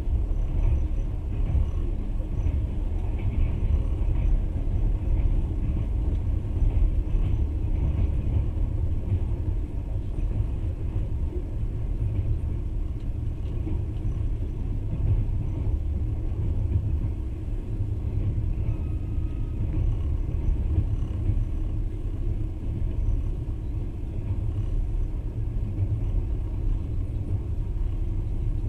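Steady low rumble of a passenger train running along the line: wheels and running gear on the rails at cruising speed, with no distinct rail-joint clicks.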